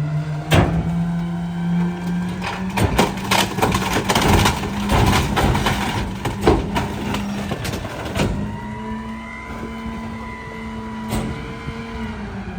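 McNeilus rear-loader garbage truck on a compressed-natural-gas Mack MRU packing bulk trash. The engine is held at raised revs to drive the packer hydraulics, while the load cracks and snaps in the hopper for several seconds. Then comes a steady hydraulic whine as the blade finishes its sweep, and the engine settles back near the end.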